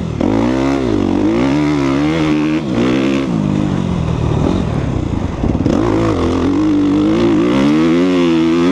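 2014 Suzuki RM-Z250 dirt bike's single-cylinder four-stroke engine being ridden hard, its revs rising and falling over and over as the throttle is opened and closed. It climbs to a long high rev near the end.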